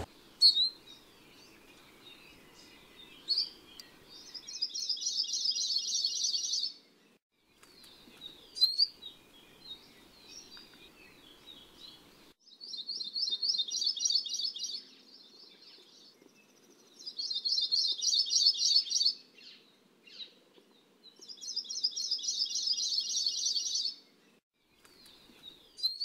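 A songbird singing: four fast, high trills, each about two seconds long, with short sharp chip notes between them.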